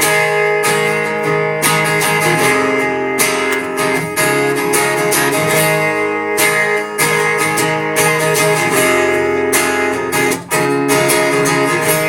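Acoustic guitar strummed in a steady rhythm, playing an instrumental break between sung verses.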